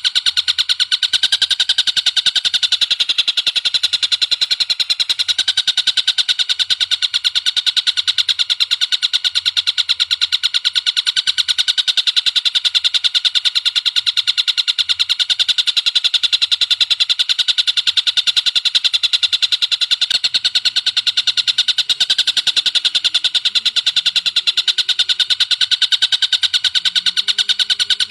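Fast, unbroken chattering of high-pitched bird calls, many notes a second with no pauses, from a looped call recording of spiderhunters and tengkek buto kingfishers.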